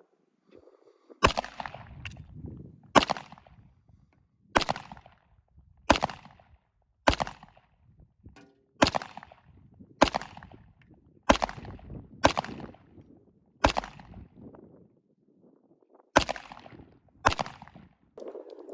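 A concealed-carry handgun firing hollow-point rounds: twelve single shots at an unhurried pace, roughly one to two seconds apart, with a longer pause about two-thirds of the way through. Each shot is sharp and has a short echo that fades away.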